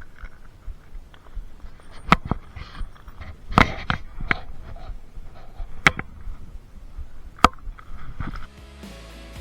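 A handful of sharp knocks and clicks at irregular intervals, a second or two apart, over faint background noise. Music comes in near the end.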